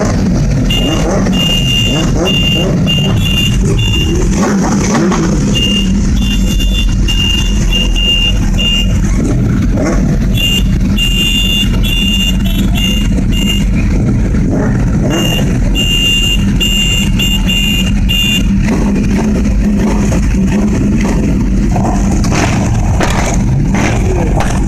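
Motorbike engine running steadily, with four runs of rapid, high-pitched beeps coming and going over it in the first three quarters.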